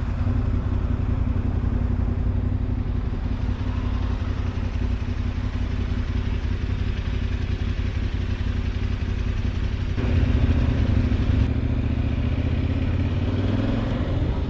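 Motorcycle engine running steadily under way, with a dense rumble of road and wind noise; the sound shifts abruptly about ten seconds in.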